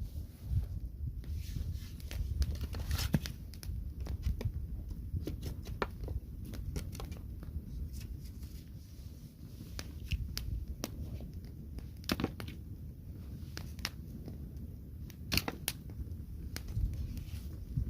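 Wood fire in a fireplace crackling, with irregular sharp pops over a low steady rumble of the flames; the louder pops come about three, twelve and fifteen seconds in.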